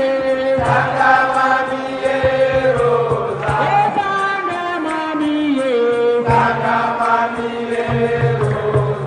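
Senegalese assiko music: a singer chanting in long held notes that slide from pitch to pitch, with a steady low accompaniment beneath.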